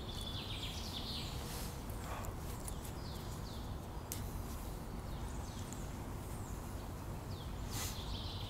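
Small birds calling in woodland: a scattered series of short, high, downward-sliding chirps over a low, steady background noise, with a brief rustle or click about halfway through and another near the end.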